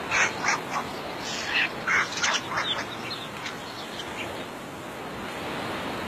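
Birds calling: a quick run of short calls, about a dozen in the first three and a half seconds, over a steady hiss.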